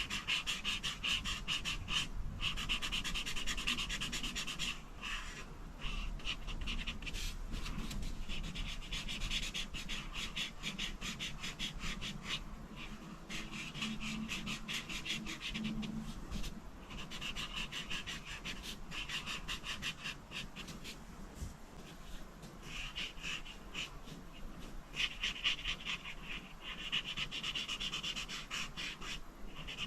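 Rapid back-and-forth coloring strokes scratching on paper, in long runs broken by brief pauses every few seconds.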